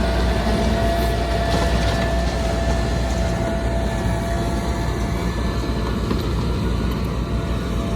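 Bulldozer's heavy diesel engine running steadily, a deep rumble with a thin steady whine above it.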